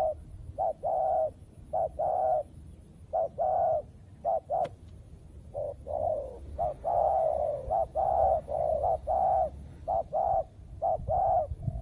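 Spotted doves cooing: a long run of short, low coos in rhythmic phrases. A single sharp click sounds about four and a half seconds in.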